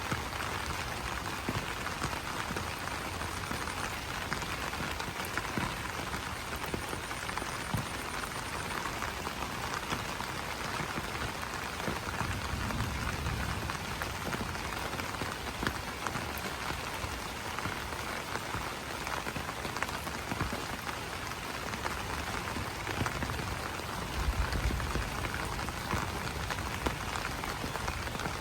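Steady rain falling on banana leaves, a dense patter of many small drops hitting the broad leaves. A low rumble swells up briefly twice, in the middle and near the end.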